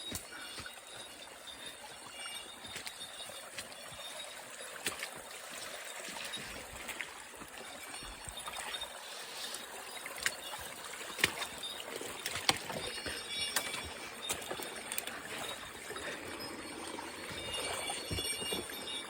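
Forest ambience: the steady rush of a running stream, with scattered sharp clicks and faint high tones near the start and end.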